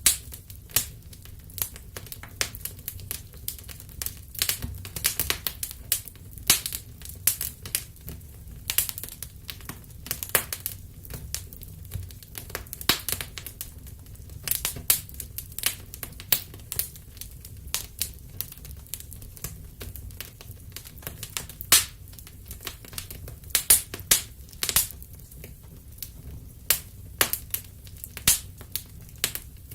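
Wood fire crackling, with frequent sharp irregular pops and snaps over a steady low rumble of flames.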